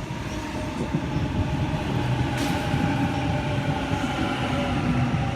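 Sydney Waratah electric train pulling into the platform, its traction motors whining in several steady tones over a low rumble. A brief hiss comes about two and a half seconds in.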